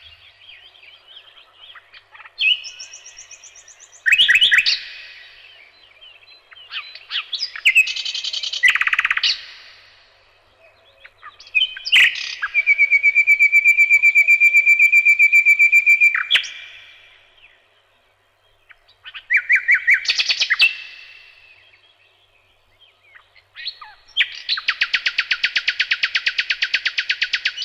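A songbird singing a series of varied phrases with pauses between them, including a long, even trill about halfway through and a fast, rapid trill near the end.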